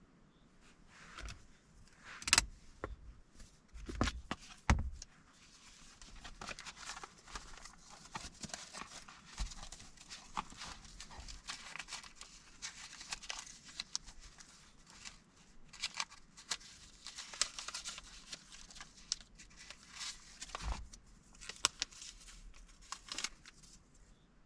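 Paper and stationery being handled: a long stretch of rustling and crinkling, broken by several sharp knocks and clicks, the loudest a few seconds in and again near the end.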